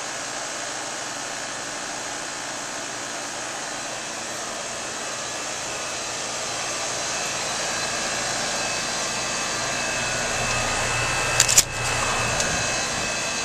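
Rheem 5-ton condensing unit running steadily: its scroll compressor and condenser fan give an even rushing noise with a faint steady whine. A brief sharp clatter comes near the end.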